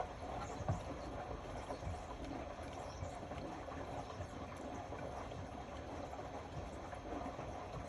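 Indesit Innex BWE 91496X washing machine on its wash cycle, the drum turning with water and laundry inside, a steady swishing run through with small knocks and one louder thud about a second in.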